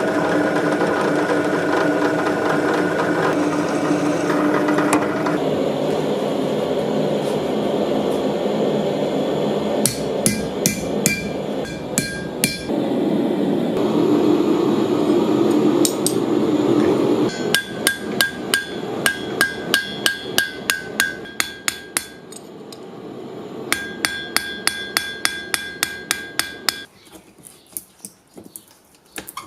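Hammer blows on metal with a ringing tone, struck in steady runs of about three a second, typical of hand-forging steel for tongs on an anvil. The first half is a steady rushing noise with a few held tones and a short burst of strikes.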